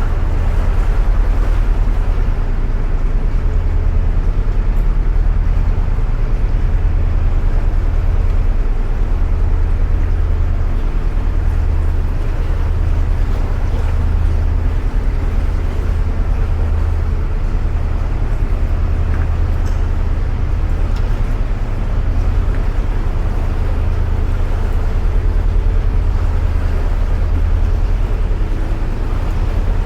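Narrowboat engine running steadily under way, a low hum that pulses gently, inside a canal tunnel.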